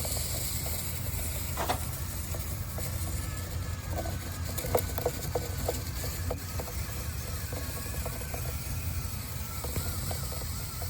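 A drill turning a dryer vent cleaning brush on flexible rods inside the duct: a steady low hum with irregular clicks and knocks of the rods and brush in the duct.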